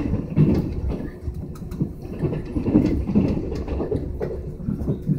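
Passenger train running, heard from inside the carriage: a steady low rumble of the wheels on the track with a faint steady hum and scattered light clicks.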